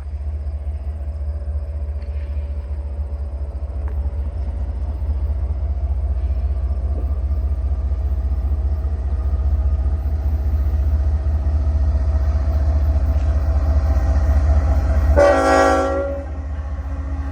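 Single CN diesel locomotive running light past the microphone, its engine a low rumble that slowly grows louder. About fifteen seconds in, the air horn sounds one short blast of about a second, a salute from the engineer.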